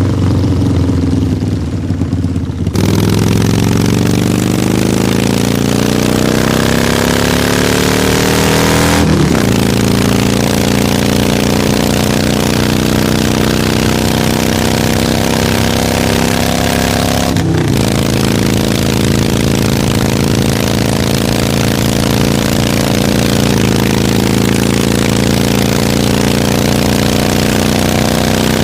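Harley-Davidson motorcycle's V-twin engine pulling away and accelerating. Its pitch climbs steadily, dips briefly at each of two gear shifts, then climbs again and settles into an even cruising note.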